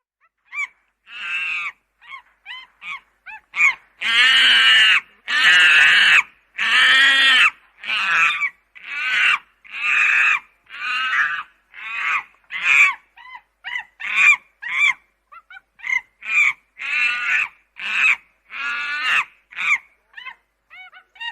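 Birds calling over and over: a string of loud, harsh calls, each under a second long, about one a second. The loudest calls come about four to eight seconds in, with shorter calls between them.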